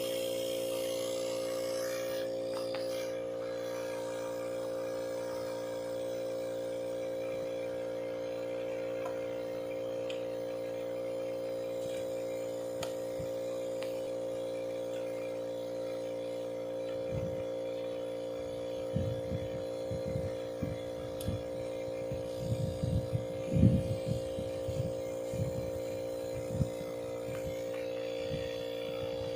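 An ARB 12-volt electric air compressor runs with a steady, even hum while it inflates an inflatable kayak's side chamber. In the second half, irregular low knocks and bumps join it.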